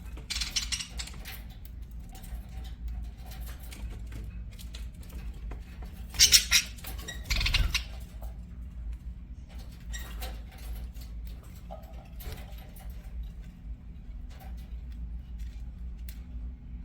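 Pet budgerigars in a cage, with scattered small clicks and scratches and a few short harsh calls, the loudest about six and seven and a half seconds in, over a steady low hum.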